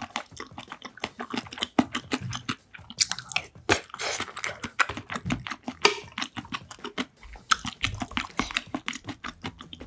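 Close-miked chewing of food, with many sharp wet mouth clicks and smacks in quick, irregular succession.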